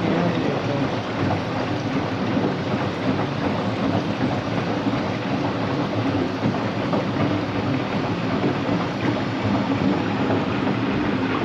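Washing machine running empty on a rinse-and-spin cycle: a loud, steady rumbling and grinding, which the owner takes for bad motor bearings.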